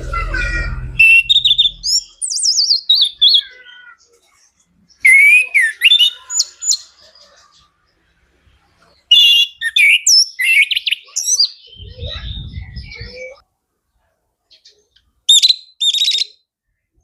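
Orange-headed thrush (anis kembang) singing in four bursts of quick, varied whistles and trills with short pauses between them. A low rumble sits under the song near the start and again about twelve seconds in.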